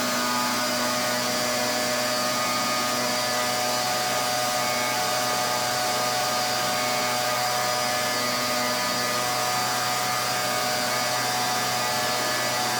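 Pressure washer running steadily: a constant machine hum with a high hiss of the water jet, with no change in pitch or level.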